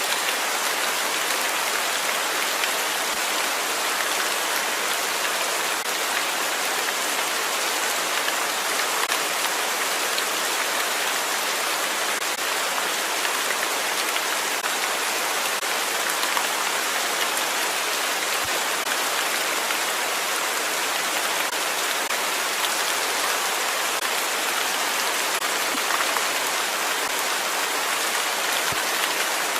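Steady rain falling and pattering on a surface, an even hiss with scattered drop ticks.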